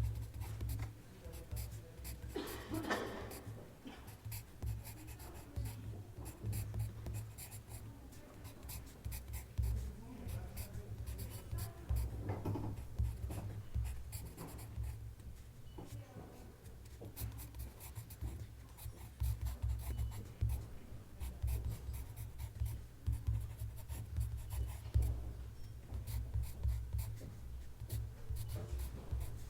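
Writing on paper: a steady run of quick, light scratching strokes, with a low rumble underneath.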